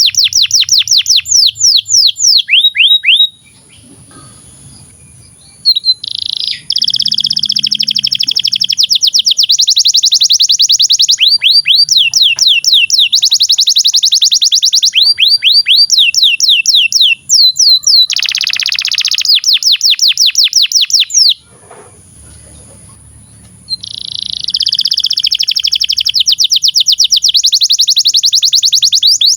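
Domestic canary singing long, fast trills of quick down-slurred notes, with denser rolling stretches between them. The song stops twice for about two seconds, once early on and once about two-thirds of the way through.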